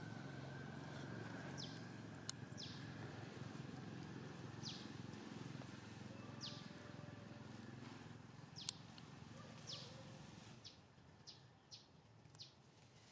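Short, high, falling bird chirps, one every second or two and closer together near the end, with a couple of sharp clicks, over a faint low rumble that drops away about ten seconds in.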